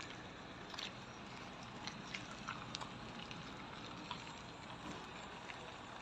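Faint, steady outdoor background noise with scattered small clicks and ticks.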